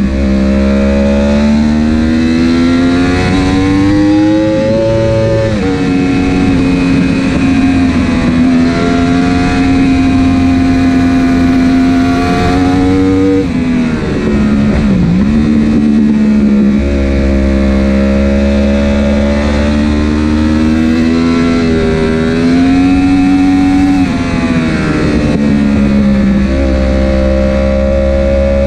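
Superbike engine heard from onboard at racing speed, its pitch climbing and then dropping sharply at each upshift, about three times. A deep dip in the middle is braking and downshifting before the revs build again. The bike is running with no quickshifter or autoblip, so the gear changes are made with the clutch.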